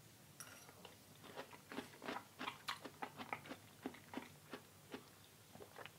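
A person chewing a mouthful of raw aloe vera leaf close to the microphone: faint, irregular mouth clicks, a few each second.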